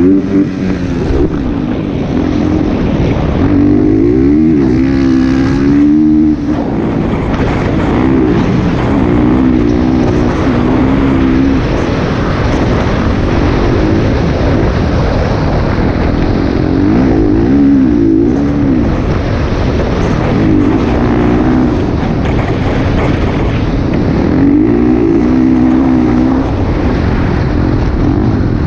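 Motocross dirt bike engine running loud, its pitch rising and falling again and again as the revs go up and down.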